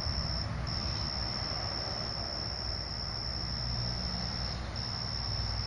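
Night insects calling with one steady, high-pitched tone that breaks off briefly twice, over a low steady rumble.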